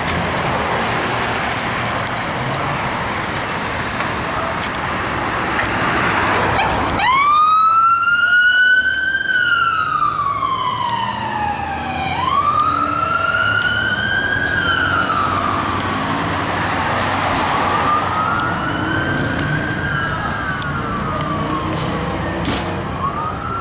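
Fire apparatus responding: heavy vehicle and road noise at first, then about seven seconds in a siren starts wailing, rising and falling slowly several times. Later a second siren wails alongside it, out of step.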